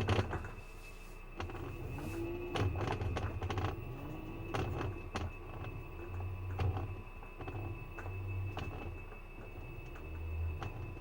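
Washing machine in its spin cycle: irregular knocking and clicking over uneven low thuds, with a short rising whine twice in the first few seconds.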